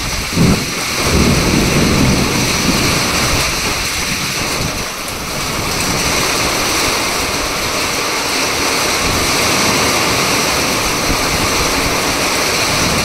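Heavy rain falling steadily, with a low rumble of thunder in the first few seconds.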